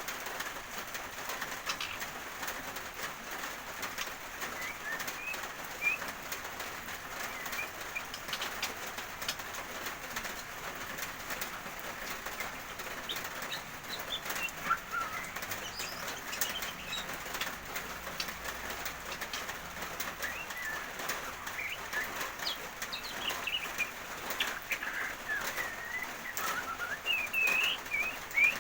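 Steady rain falling, with many small drop clicks over a continuous hiss, and small birds chirping now and then, more often and louder near the end.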